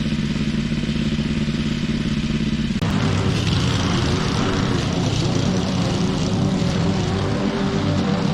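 Lawn mower engine running steadily; its sound changes abruptly about three seconds in.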